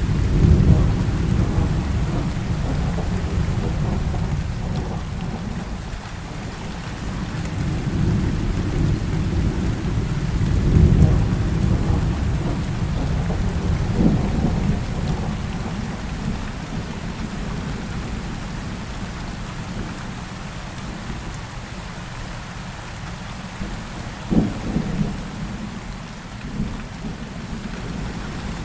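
Heavy rain pouring steadily, with rolling thunder that swells near the start and again about 11 seconds in. Sharper cracks of thunder come about 14 and 24 seconds in.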